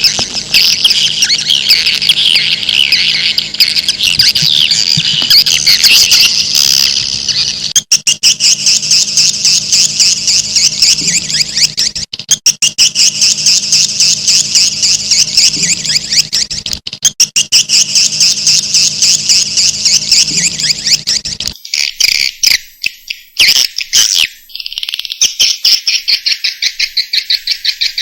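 Recorded swiftlet calls: a dense, continuous run of rapid, high chirping twitters, the kind of call track played to lure swiftlets to a nesting house. The recording breaks off sharply a few times, and a low background hum drops out about two-thirds of the way through.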